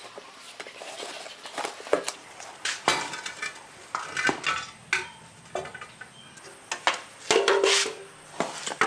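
Metal tools and parts clinking and clattering as they are handled, in irregular sharp knocks, some of them ringing briefly.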